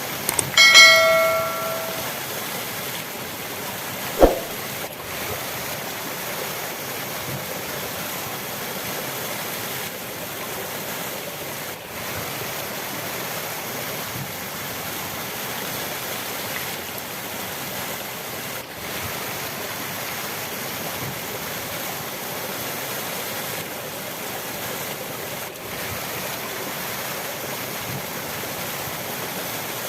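Steady rush of flowing river water. Near the start a short pitched sound rings for about a second, and a single sharp knock comes about four seconds in.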